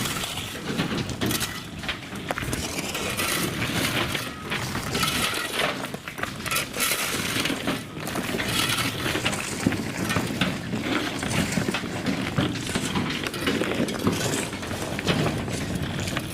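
Stone pouring out of railway wagons onto the trackside: a continuous dense clatter of rocks tumbling and knocking against each other and the wagon.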